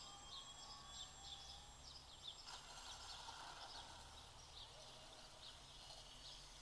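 Faint outdoor ambience with small birds chirping in quick, repeated high notes over a low steady hum.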